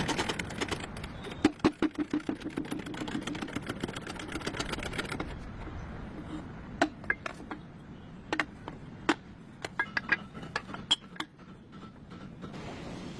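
Hand tools working on metal: a fast run of clicking for the first few seconds, then scattered sharp metal clinks and taps.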